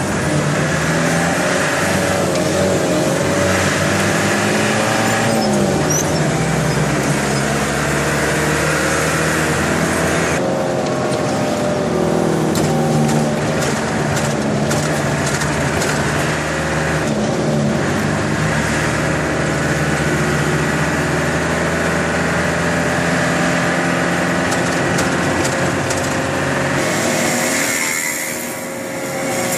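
Box truck's engine running under way, heard from inside the cab, its pitch shifting several times along with road noise. The sound eases briefly near the end.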